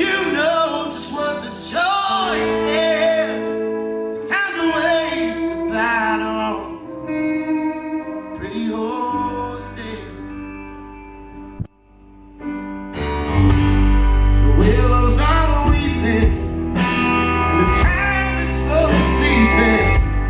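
Live rock band playing, with a bending melodic lead over guitar and a sustained backing. About twelve seconds in the music drops away briefly, then the full band comes back in loud with drums and heavy bass.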